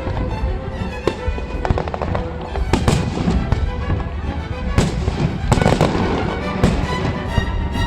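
Fireworks exploding in a series of sharp bangs and crackles, with the biggest bangs a little before midway and in the second half, over loud music playing with the show.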